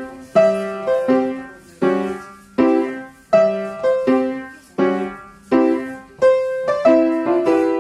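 Piano playing a march as ballet class accompaniment, with firm chords struck about every three-quarters of a second, each ringing and fading before the next.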